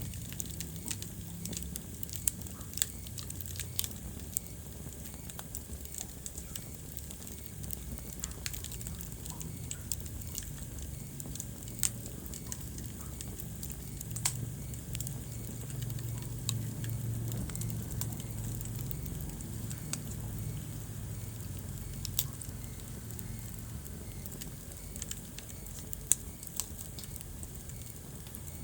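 Wood fire burning in a fireplace, crackling with irregular sharp pops over a low steady rumble of the flames, with one louder pop near the end.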